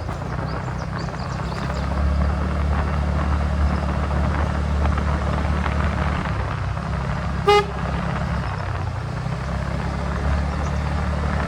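TVS Ntorq scooter riding along with a steady low engine and road rumble. About halfway through, one short horn toot sounds loudly.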